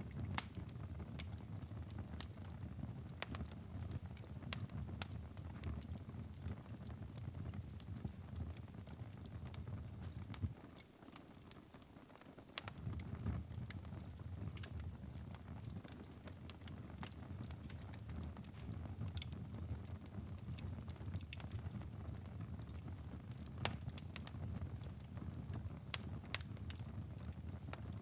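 Wood fire crackling in a fireplace: a steady low rumble of flames with frequent irregular sharp pops and snaps. The low rumble drops away for about two seconds near the middle.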